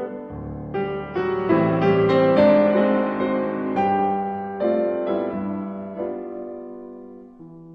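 Background piano music: soft, slow chords that swell about two seconds in, then fade away towards the end.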